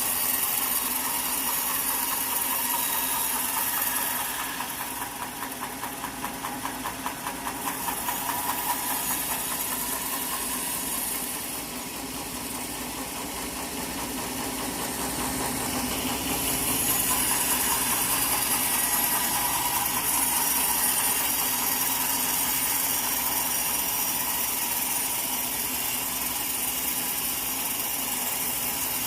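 Sawmill machinery running steadily, with the level dipping and swelling twice along the way.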